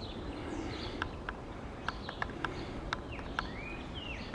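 Wild birds calling: a scatter of short sharp chips, with a few sliding whistled calls, mostly falling in pitch and one rising, about three seconds in.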